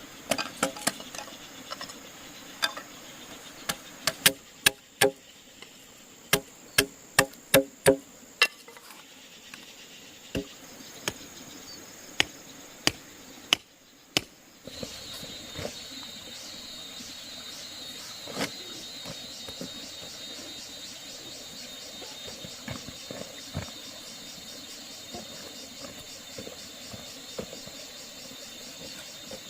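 A run of sharp, irregular knocks, some with a short ringing tone, like blows on wood during work. Then, after a cut about halfway through, a steady evenly pulsing chirr of insects with only an occasional faint knock.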